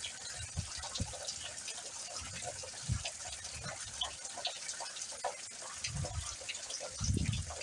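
Steady heavy rain falling, a constant hiss with pattering drips and splashes, and a few soft low thumps about three, six and seven seconds in.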